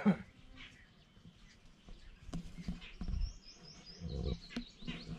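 Birds chirping, with a run of high, stepped chirps about three seconds in, over scattered low rumbling. A sharp knock right at the start is the loudest sound.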